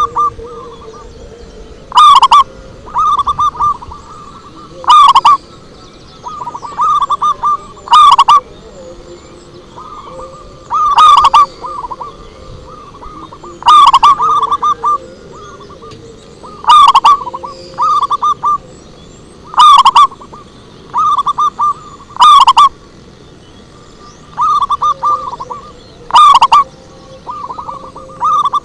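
Zebra dove (perkutut) cooing: short phrases of quick rolling coo notes, repeated one after another, the loudest about every three seconds and loud enough to distort. Faint chirps of other birds sound behind them.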